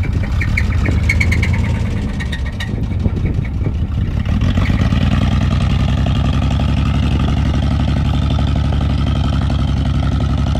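Chevy S10 engine running, revved up about four seconds in and then held steady at the higher speed. The engine is worn out, which its owners say has no oil pressure.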